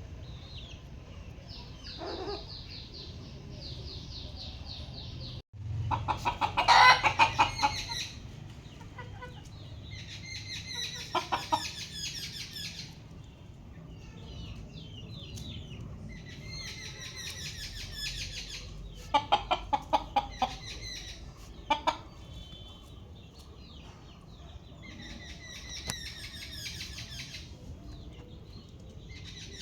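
Chickens clucking in repeated bouts of rapid calls, loudest about six to eight seconds in.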